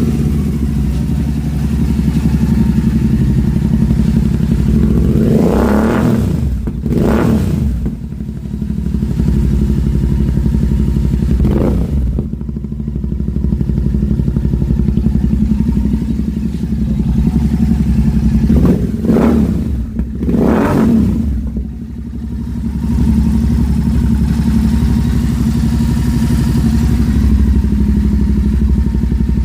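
Royal Enfield Continental GT 650's parallel-twin engine running through a Red Rooster aftermarket exhaust, idling steadily and revved in five short throttle blips: two close together, one on its own, then two more.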